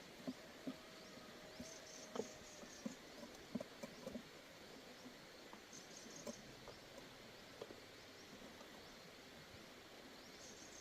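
Faint, scattered light clicks and taps, most of them in the first four seconds, over a low steady hiss, with a few brief clusters of faint high chirps.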